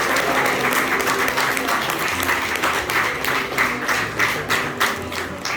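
Audience applauding, the clapping thinning out to scattered separate claps near the end.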